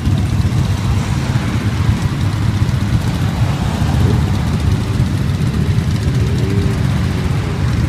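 Many motorcycle engines running together, giving a steady, low, dense engine sound without a single clear rev.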